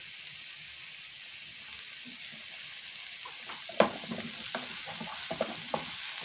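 Diced zapallo macre squash with onion and garlic sizzling steadily in hot oil in a frying pan. From about three and a half seconds in, a wooden spoon stirs it with a run of knocks and scrapes against the pan; the first knock is the loudest.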